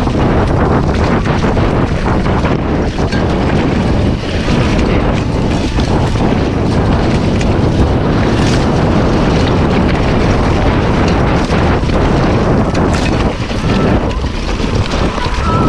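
Heavy wind buffeting the microphone, a loud steady rush with no clear pitch or rhythm.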